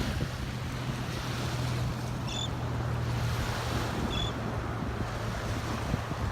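Small waves washing on the beach with wind blowing on the microphone, over a steady low hum. Two short high chirps come about two seconds apart.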